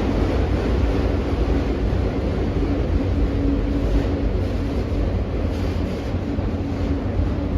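Freight train cars rolling past on the rails, a steady loud rumble with a faint humming tone partway through.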